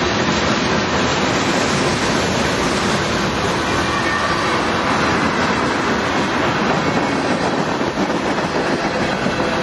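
Mixed freight train of covered hoppers and tank cars rolling past at speed: a steady, loud rumble of steel wheels on the rails.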